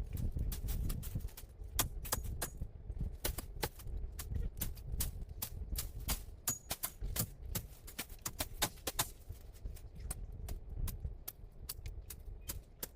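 Irregular light knocks and clicks, several a second, over a low rumble.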